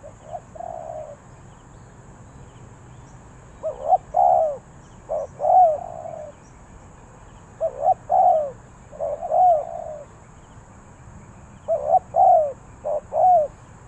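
Spotted dove cooing: three phrases about four seconds apart, each a few short coos running into a longer drawn-out final note, with the tail of another phrase right at the start.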